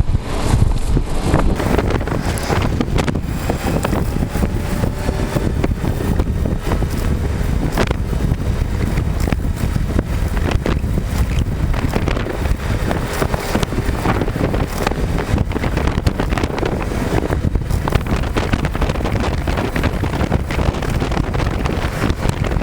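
Wind buffeting the microphone with road noise, while riding a Kymco Candy 3.0 electric scooter at speed. The rumble is steady and loud throughout, with frequent short gusts.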